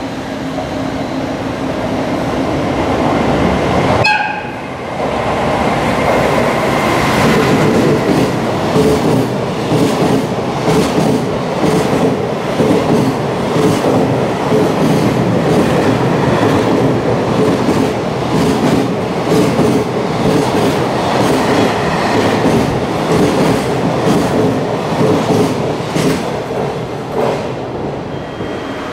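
Long freight train of container wagons passing through the station at speed. There is a short horn blast about four seconds in, then the wagons' wheels clatter rhythmically over the rail joints, easing off near the end as the last wagons go by.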